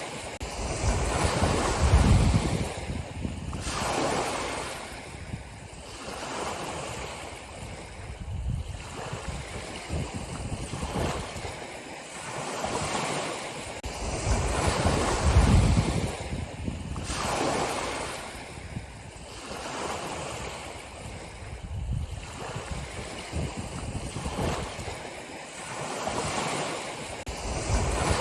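Ocean waves breaking and washing on a shore, swelling and ebbing in repeated surges every few seconds, with low rumble under each surge.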